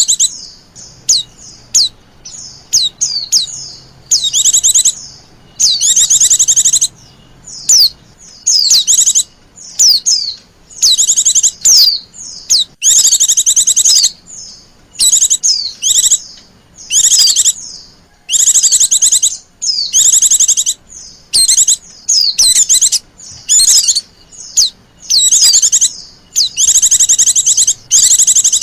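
White-eyes (pleci) giving agitated, high-pitched trilled chirps in short bursts, one after another about every second. This is the noisy 'ribut' lure call used to draw in wild white-eyes.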